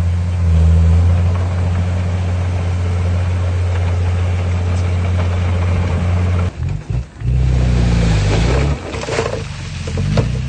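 Heavy diesel engine of earthmoving equipment running steadily. About two-thirds of the way through it dips briefly, then comes back with its pitch shifting under a rough scraping and rattling noise.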